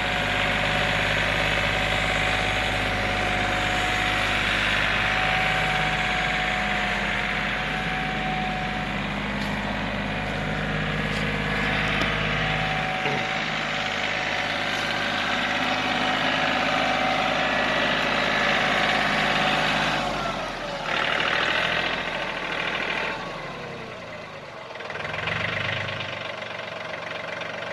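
John Deere 4210 compact tractor's three-cylinder Yanmar diesel engine running steadily, its tone shifting partway through and its level dipping and recovering near the end.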